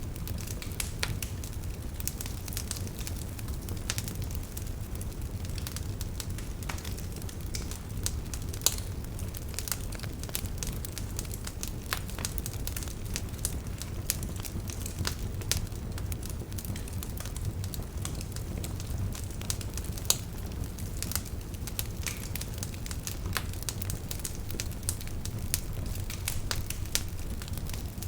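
Wood campfire burning with a steady low rumble of flames and frequent irregular crackles and small pops.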